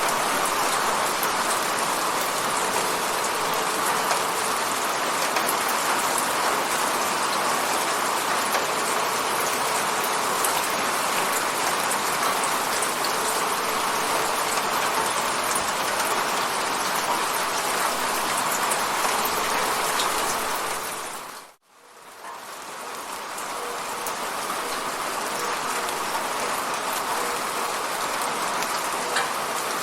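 Steady rain hitting a window, an even hiss with faint scattered drop ticks. About two-thirds of the way through, it fades almost to silence for a moment, then swells back to the same steady rain.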